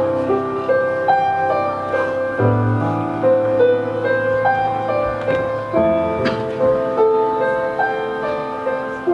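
Slow, tender piano introduction to a ballad, melody notes over sustained bass notes.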